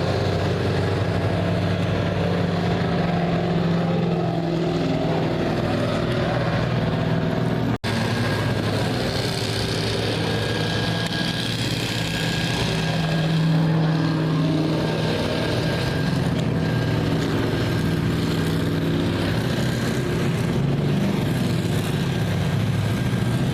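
Race car engines running steadily on the track, the sound cutting out for an instant about eight seconds in.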